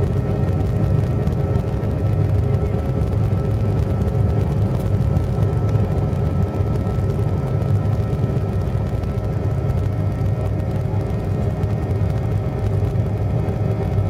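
Boeing 737 cabin noise heard from inside: the jet engines and airframe give a steady low rumble with a few steady whining tones over it, holding an even level.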